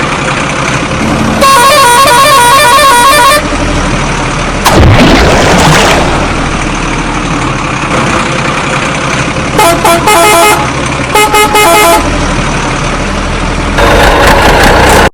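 Vehicle horn honking in rapid pulsing blasts, three bursts in all, over steady engine noise, with a brief swooping sound about five seconds in.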